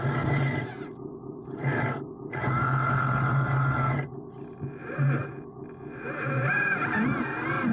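Small electric motors and gearing of radio-controlled construction models whirring in short runs, stopping and starting several times.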